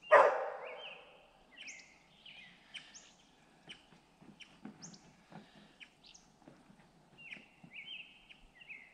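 Birds chirping and singing in a long run of short, quickly sweeping notes. Right at the start comes a brief loud noise lasting about a second, dying away.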